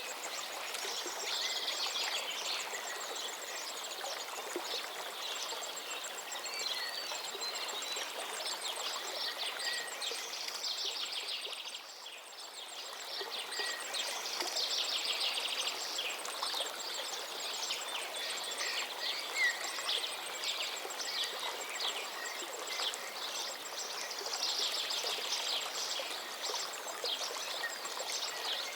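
River water running steadily, with songbirds singing rapid trilling phrases over it every several seconds. The water briefly dips in level about halfway through.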